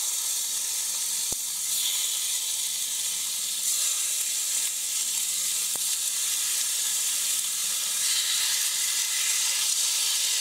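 Chicken breast fillets sizzling in a preheated, lightly oiled frying pan on maximum heat: a loud, steady, high hiss as more pieces are laid in.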